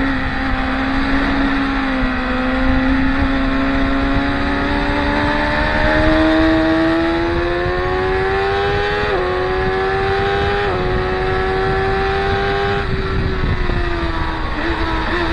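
Racing motorcycle engine under load, its pitch rising steadily and dipping briefly twice as it shifts up. A little past halfway it eases off, the pitch falls, and there are short blips near the end as it slows.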